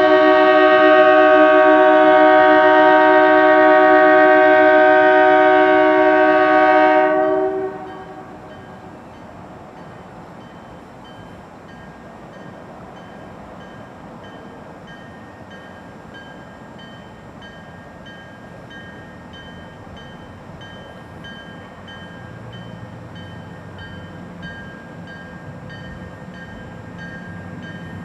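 GMD GP40-2LW locomotive's multi-note air horn held in one long, loud blast that cuts off about seven seconds in. After it, a faint rapid pulsing high tone and the locomotive's low rumble, which grows louder near the end.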